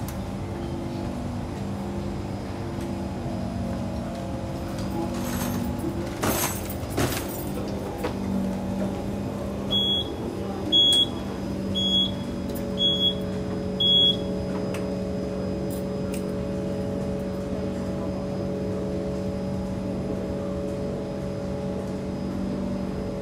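Steady hum inside a Kawasaki C151 MRT train with no rise or fall in pitch, broken by a few brief clatters and then, midway, five short high beeps about a second apart, the door-closing warning.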